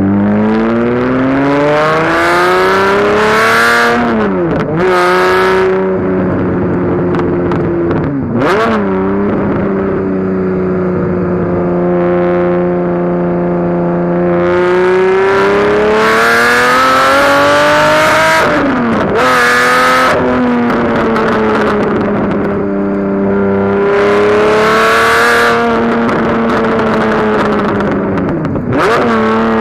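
Lamborghini Murcielago V12 through a Larini back box and cats, pulling hard up through the gears of its manual gearbox. The revs climb, then drop sharply at each of about four gear changes, with a harsh rasp at the top of each pull.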